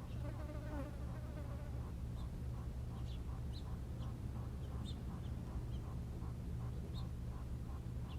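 Birds calling: short high chirps scattered throughout, and a longer pitched call in the first second or two. Behind them are a steady low hum and a soft regular pulsing, about two or three beats a second.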